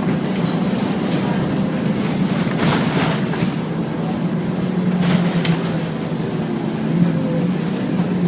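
Scania N230UD Omnicity double-decker bus with a five-cylinder diesel engine running under way: a steady low engine drone with occasional rattles and knocks.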